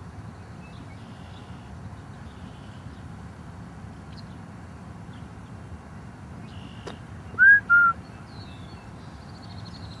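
Faint high bird chirps and a short twittering run near the end, over a steady low outdoor rumble. About seven and a half seconds in come two loud, short whistled notes, the first rising then falling and the second level.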